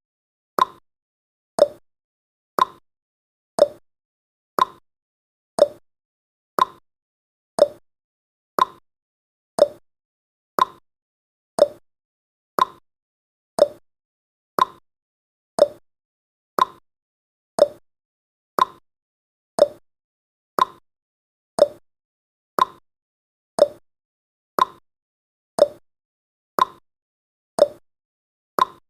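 Clock tick-tock sound effect: one sharp click a second, alternating between a higher and a lower tick.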